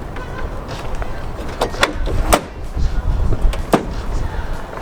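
Low steady rumble of a vehicle, with several sharp clicks, the loudest about two seconds in and near the end.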